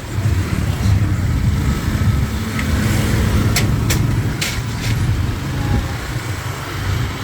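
Motorbike riding along a road: steady engine and road noise, with four sharp clicks in the middle.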